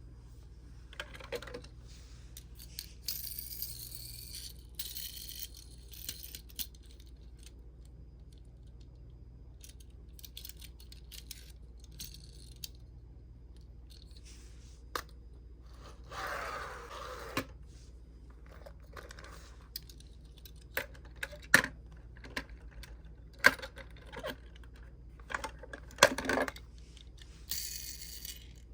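Die-cast minicars clicking and clinking against each other and a toy truck as they are handled and loaded, with scattered light clicks and short rustles. A few sharper clicks in the second half are the loudest.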